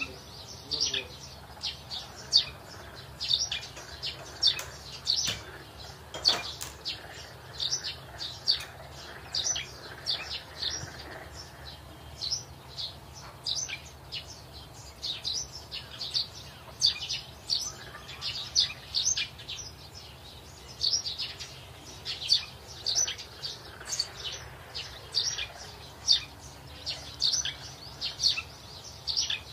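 Small birds chirping over and over, short high chirps a few times a second, with a steady faint low hum underneath.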